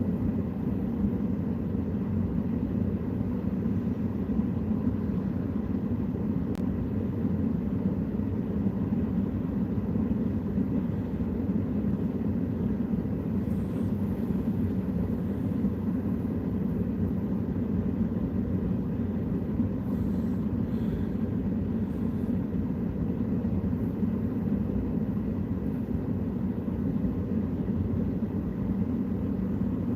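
Steady low vehicle rumble, even and unchanging throughout.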